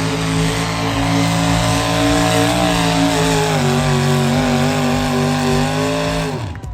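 Pulling vehicle's engine running hard under load as it drags the sled down the track, its pitch stepping down a couple of times as the load builds. The sound cuts off abruptly near the end.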